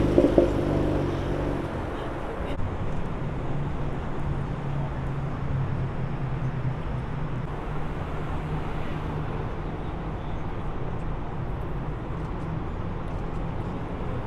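A car engine running steadily at idle, with a brief louder burst right at the start.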